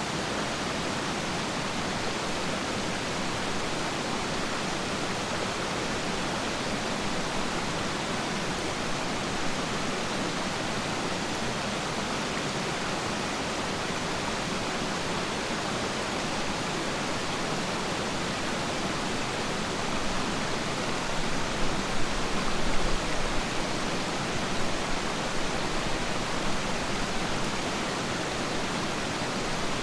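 Waterfall: a steady, even rush of falling water. About two-thirds of the way through it swells with a few louder low surges.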